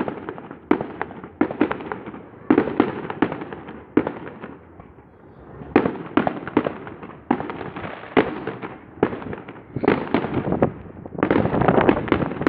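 Aerial fireworks bursting in quick clusters of sharp booms, each fading off. About eleven seconds in they merge into a dense, continuous barrage of bangs and crackle.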